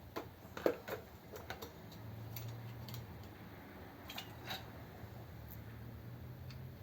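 Scattered light clicks and taps of small tools and metal parts being worked on a carburettor's accelerator pump, the sharpest about a second in, over a low steady hum.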